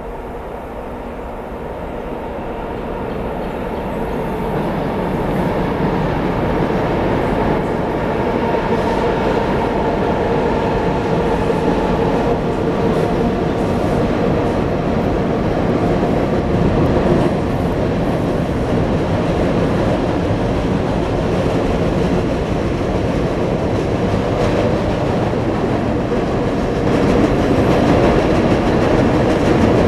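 Freight train crossing the high steel bridge overhead, heard from below: a dense, loud rumble of wheels and cars that builds over the first few seconds and then holds, with clicking of wheels over rail joints.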